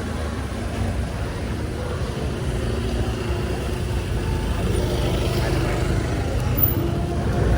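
Street traffic: a steady mix of passing vehicle engines, growing somewhat louder near the end.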